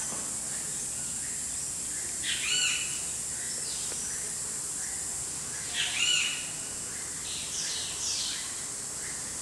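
Outdoor ambience of a steady high insect buzz, with short arched bird calls standing out about two and a half seconds in, again about six seconds in, and more faintly near eight seconds.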